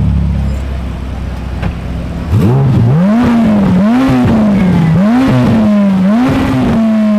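High-performance car engine being revved: a held rev dropping back to idle, then a sharp rev a little past two seconds in followed by a run of throttle blips that rise and fall about once a second, the last one held near the end.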